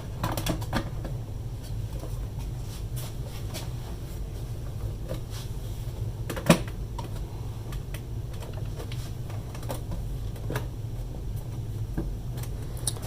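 Scattered light clicks and taps of a transistor radio's chassis and cord being handled and fitted into its case, with one sharper knock about six and a half seconds in, over a steady low hum.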